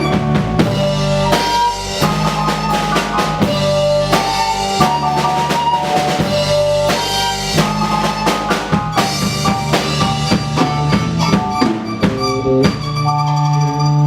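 Live band playing an instrumental passage over a drum kit beating kick and snare under pitched instrument notes. Near the end the drums stop and long held notes ring on.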